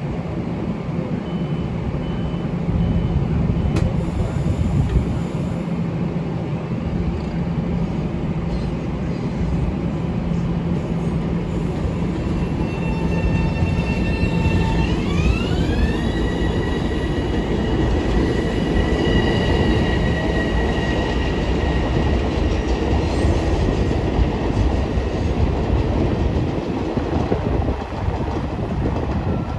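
A Long Island Rail Road train running through the station with a continuous rumble of wheels on rail. About halfway through, a whine in several pitches rises and then holds steady, like traction motors as the train speeds up.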